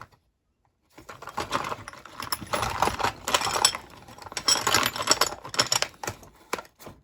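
Small metal hand tools clattering and jangling against each other as they are rummaged through in a container, starting about a second in and going on in irregular bursts.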